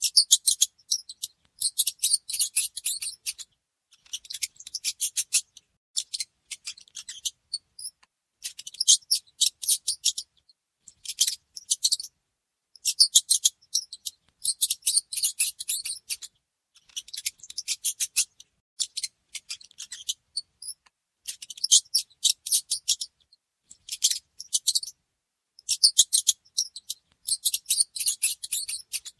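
Mouse scratching sounds: rapid dry clicks in bursts of one to two seconds, separated by short pauses. A faint high chirp comes twice.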